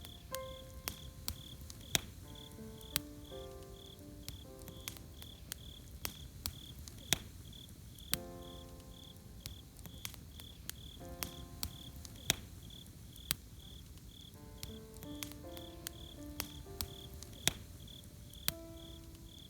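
Campfire crackling with scattered sharp pops, over crickets chirping steadily at about three chirps a second. A soft instrumental melody of plucked or struck notes plays in and out behind them.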